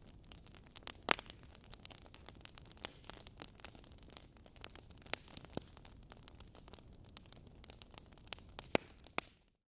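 Wood fire in a fireplace crackling, with a steady low hiss of flame and frequent sharp pops and snaps from the burning logs, a few louder ones about a second in and near the end; the sound cuts off suddenly just before the end.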